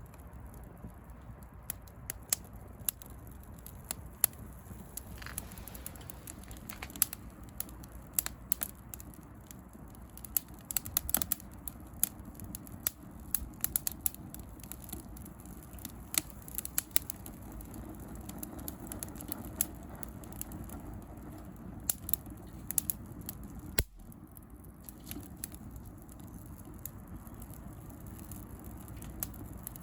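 Open bonfire of dried rose prunings and branches crackling, with irregular sharp snaps and pops over a steady low background.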